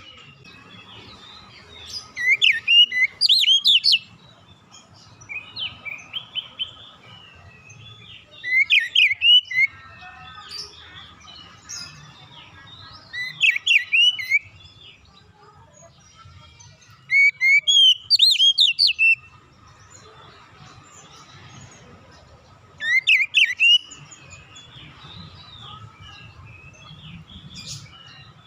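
Oriental magpie-robin (kacer) singing: loud whistled phrases of quick rising and falling notes, a burst every few seconds, over a faint steady hum.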